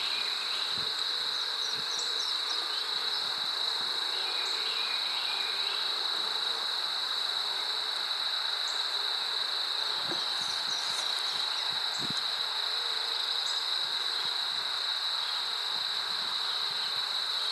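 Steady, high-pitched insect trilling, an unbroken outdoor drone of crickets or cicadas, with a few faint soft knocks.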